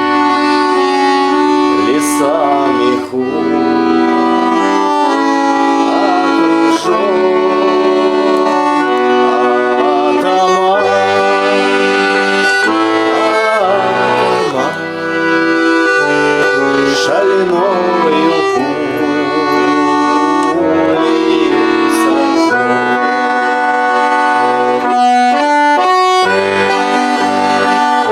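Garmon (Russian button accordion) playing an instrumental passage, sustained chords under a moving melody without a break.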